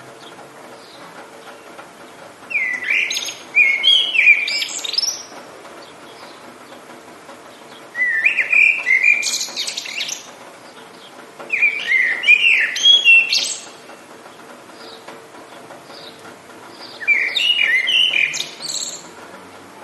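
A songbird singing four warbling phrases of about two seconds each, with pauses between, over a faint steady background noise.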